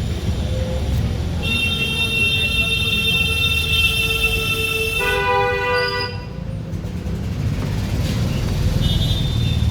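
A vehicle horn sounds one long steady honk for about three and a half seconds, then a different horn honks for about a second, over a steady low rumble of traffic.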